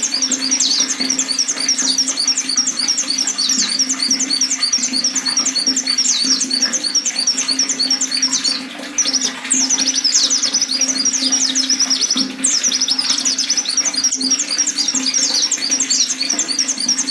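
White-eye (pleci) singing a fast, unbroken twittering song of rapid high chirps, pausing briefly about halfway through and again about two-thirds through.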